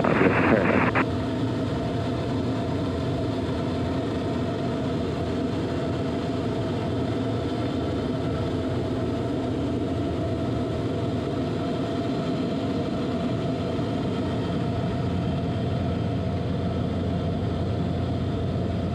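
Steady cockpit drone of the Soloy 206's Allison turbine engine and propeller in flight, holding a constant hum with fixed tones. A radio transmission cuts off about a second in.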